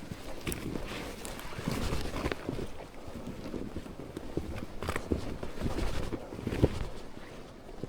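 Slow, irregular footsteps with scattered small knocks, over wind rumbling on the microphone.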